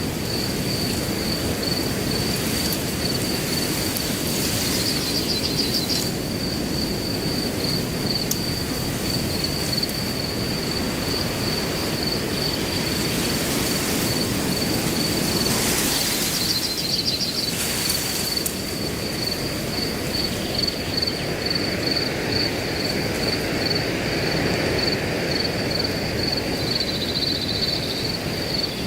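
Wind blowing through grass, a steady rushing with a few stronger gusts, under a continuous high-pitched cricket chirping.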